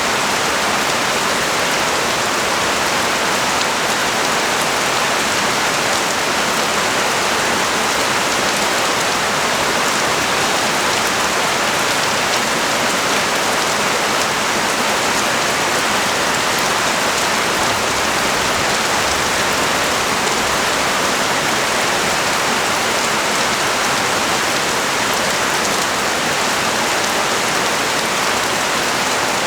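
Heavy rain pouring steadily onto a street and balcony, an even hiss of countless drops with no pauses or distinct impacts.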